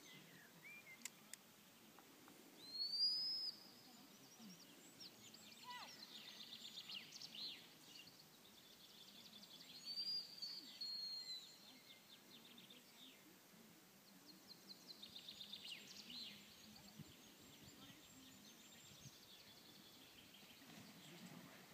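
Wild songbirds singing faintly: clear arching whistled notes, the loudest about three seconds in and again about ten seconds in, with quick trills between them.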